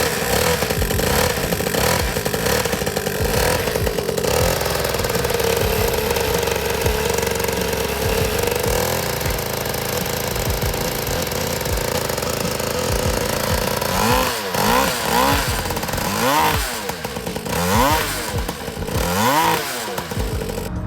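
Small 50cc gas engine of a kids' mini dirt bike running, steady at first, then revving up and down several times in quick succession near the end.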